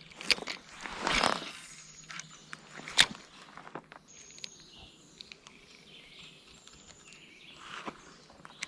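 A few sharp clicks and a brief rustling swish from an angler moving and handling fishing gear, the loudest click about three seconds in. Faint high bird chirps follow in the second half.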